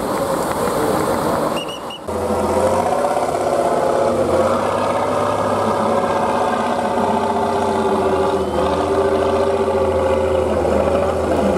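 Competition trial truck's engine running and revving, its pitch rising and falling as it works. The sound drops out briefly about two seconds in.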